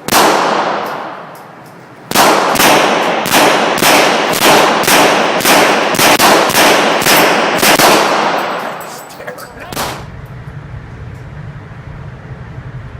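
Gunshots on a shooting range: a single shot, then after a short pause a rapid string of about a dozen shots, roughly two a second, each with a ringing tail. A last, weaker shot comes near the end, and a low steady hum is left after it.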